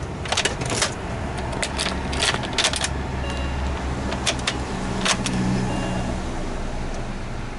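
BMW-era Mini car engine idling steadily after being started with a newly reshelled key, with the key fob and keys clicking and jingling several times over it.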